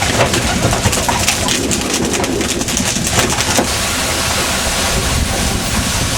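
Steady noise of a fishing boat under way: a low engine rumble under a rushing hiss of water and wind, with a quick run of clicks and knocks through the first three and a half seconds.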